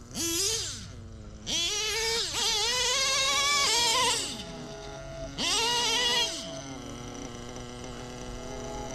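Nitro RC truck's .21 glow engine with a tuned pipe, revving hard in several bursts, its high pitch climbing and falling with the throttle and dropping to a lower note in between. It settles to a steady, quieter note near the end.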